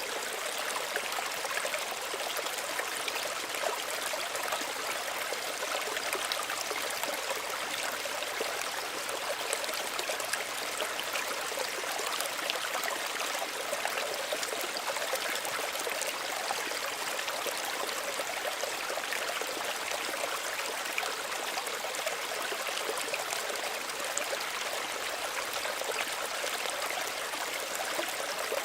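Small stream running over stones, a steady babbling and trickling of shallow water.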